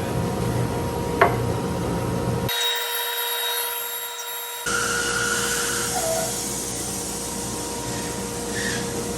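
Woodworking power tool running on wood, a steady machine noise that changes abruptly about two and a half seconds in and again near five seconds, with a short sharp sound about a second in.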